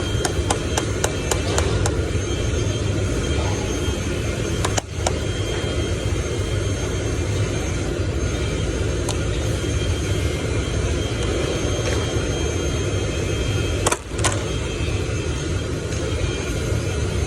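A motor or engine running steadily with a low rumble and a faint hum. A fast run of ticks fades out over the first couple of seconds, and there are two sharp clicks, one about five seconds in and one near fourteen seconds.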